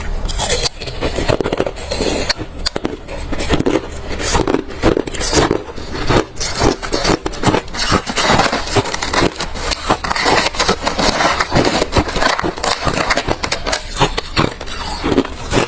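Close-miked chewing of refrozen crushed ice: a dense run of loud, irregular crunches and cracks as the hard ice breaks between the teeth.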